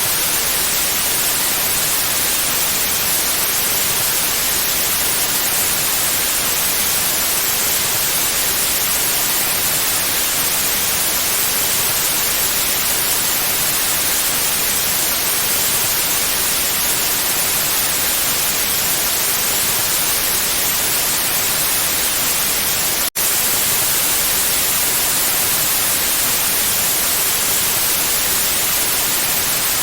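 Steady white noise: an even hiss across all pitches, strongest in the high treble. It cuts out for a split second about three quarters of the way through, then carries on unchanged.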